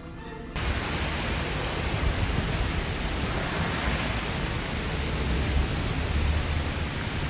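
A steady, even rushing noise with a low rumble underneath, cutting in about half a second in and holding unchanged.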